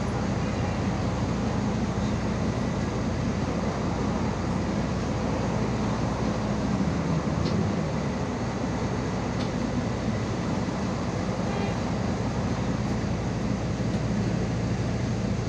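Cabin noise of a MAZ 216.066 city bus under way: a steady engine drone with road and body noise, and a few faint ticks.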